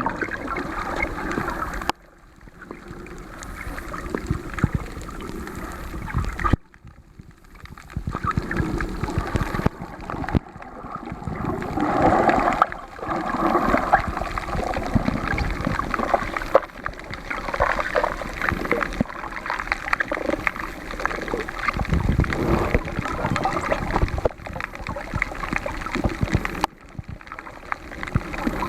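Gurgling, bubbling water heard underwater, in surges of a few seconds broken by short quieter gaps.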